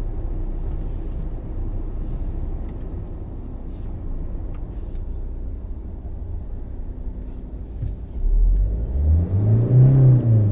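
Tata Altroz diesel engine idling steadily, heard from inside the cabin just after a start, then revved once about eight seconds in, its pitch rising and falling back.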